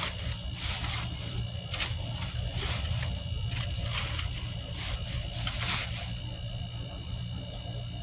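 Dry leaves and twigs rustling and crackling in repeated bursts as garden debris is piled into a raised bed, over a steady low rumble; the crackling thins out after about six seconds.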